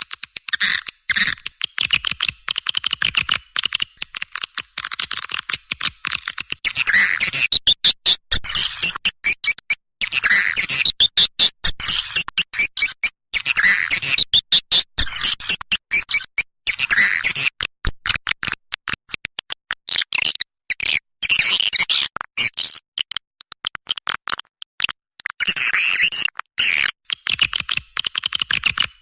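Recorded swiftlet calls: rapid chattering clicks and chirps in dense runs that swell into busier bouts every few seconds, used as a lure sound for swiftlet houses.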